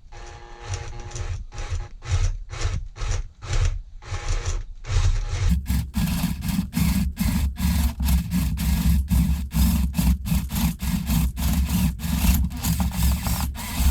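Rhythmic back-and-forth rasping strokes of a hand tool working the door frame where the lock's bolt will go, about two a second at first, then faster and heavier from about five seconds in.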